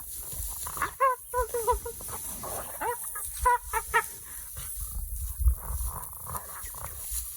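An animal giving a run of short, pitched calls in quick succession over a low rumble.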